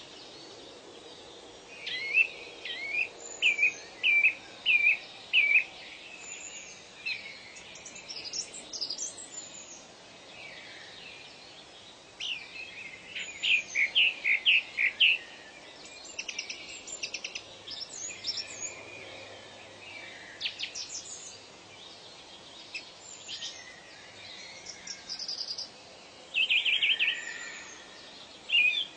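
Several birds singing and calling: short runs of quick, repeated chirping notes, and a rapid buzzy trill near the end, over a steady background hiss of outdoor ambience.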